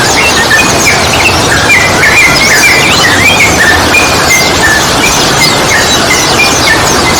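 Sooty-headed bulbul (trucukan) calling: short whistled notes repeated several times a second, over a steady loud rushing noise and many thin, high chirps from other birds.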